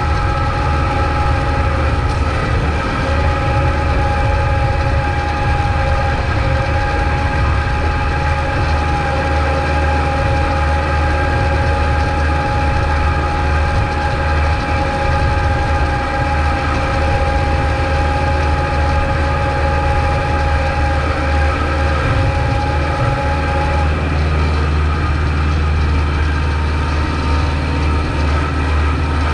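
Kubota MX5200 tractor's diesel engine running steadily under load with a deep drone, alongside a steady higher whine that stops about 24 seconds in.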